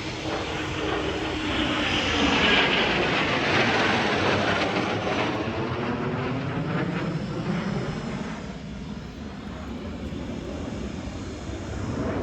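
Fixed-wing aircraft flying past, its engine noise swelling to a peak a few seconds in and then slowly fading away.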